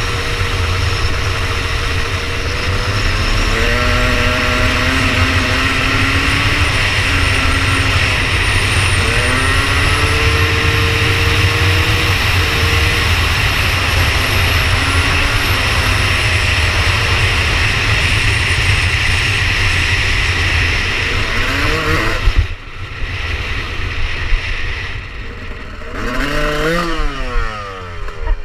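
2002 Yamaha YZ250 two-stroke single-cylinder dirt bike engine running under load as the bike is ridden, its pitch rising and stepping through the gears. About 22 seconds in the sound drops off suddenly, and near the end there is a short rev up and back down.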